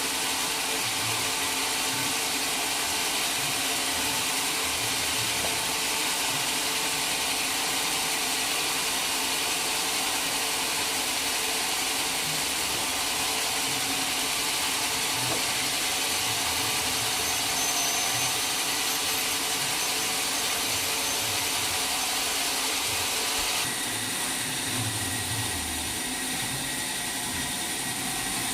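Sawmill machinery running with a steady mechanical whir; the sound thins out slightly about 24 seconds in.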